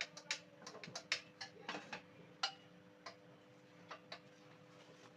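Irregular light metallic clicks and taps as the fan motor's rotor and shaft are handled and positioned on a hydraulic press, a quick run of them in the first two seconds and a few single ones after, over a faint steady hum.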